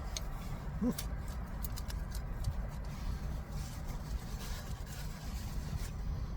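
Sounds of someone eating a burrito: scattered soft clicks and crackles of chewing and wrapper over a steady low rumble, with a brief hum about a second in.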